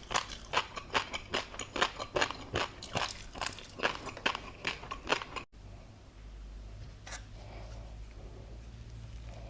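Close-miked eating of tobiko roe and crunchy topping: rapid crisp crunches and pops between the teeth, about three or four a second. They stop abruptly about five and a half seconds in. After that only a low hum and an occasional faint click remain.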